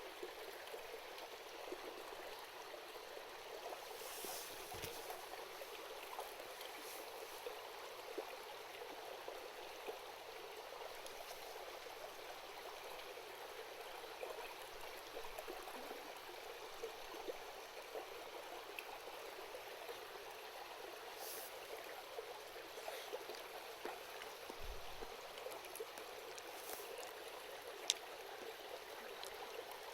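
A small stream babbling steadily, with scattered small crackles from a wood campfire and one sharp pop near the end.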